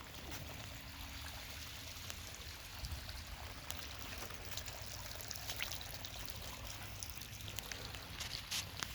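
Rain runoff trickling and running, a steady wash of water sound with scattered small ticks and drips, a few sharper ones near the end.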